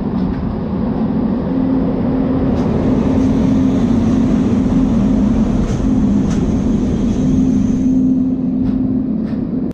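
Passenger train running, loud and steady, with a low hum and a few sharp clicks through it.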